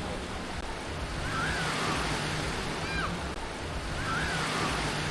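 Black Sea surf washing onto the beach in a steady wash of waves, with a few short high-pitched calls over it.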